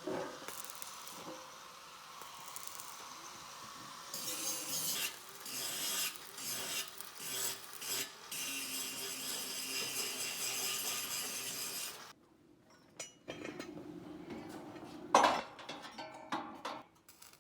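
Scraping and rasping of hand-tool work in uneven strokes, which gives way about twelve seconds in to a quieter stretch with one sharp knock a few seconds later.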